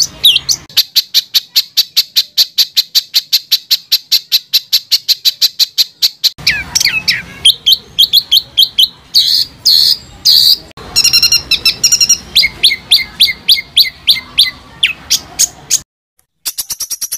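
Songbird song: a rapid, even run of short high notes, about eight a second, for several seconds. It gives way to a varied string of chirps and whistles, breaks off briefly near the end, and then another quick series of notes begins.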